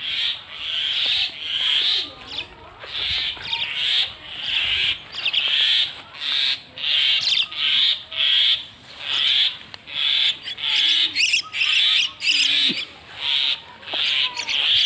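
Common myna giving harsh, rasping calls over and over, more than once a second.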